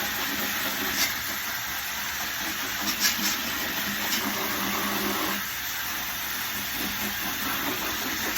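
Air blower running steadily, a hissing rush of air with a low motor hum, blowing debris out of a parrot cage. A few brief sharp clicks sound over it.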